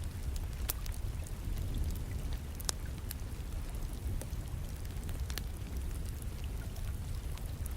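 Wood fire crackling, with a few sharp, scattered pops over the steady low rumble of rain.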